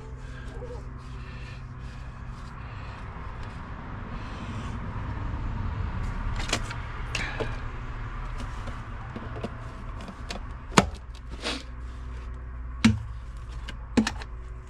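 Plastic drain fittings being handled and pushed together: a few sharp knocks in the second half, over a steady low rumble.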